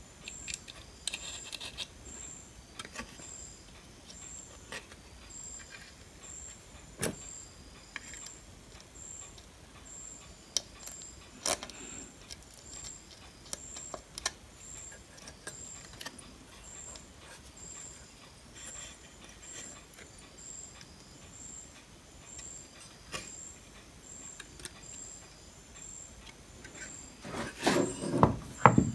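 Scattered light clicks and taps of small tools and components being handled at a workbench, with a louder clatter near the end. A faint high-pitched chirp repeats steadily about every 0.7 s throughout.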